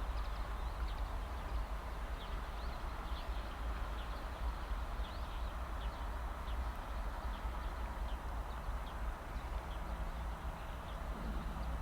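Outdoor ambience in a field: a steady low rumble, like wind on the microphone, under a noisy haze, with faint short high chirps every second or so.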